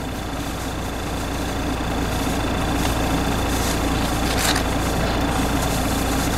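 A car engine idling steadily, with a short brushing swish about four and a half seconds in as snow is swept off the car.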